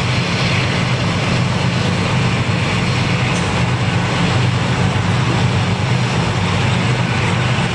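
Diesel freight train passing: the steady low drone of the CN diesel locomotives' engines working, mixed with the rolling noise of wheels on rail as the towed BNSF locomotive and tank cars go by.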